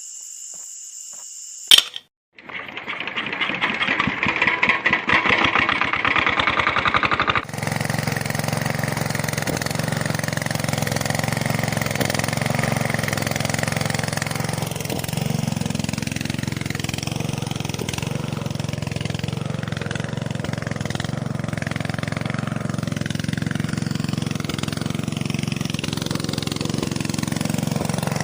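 Small diesel engine being started: after a sharp click, about five seconds of fast rattling cranking, then it catches and runs steadily for the rest of the time.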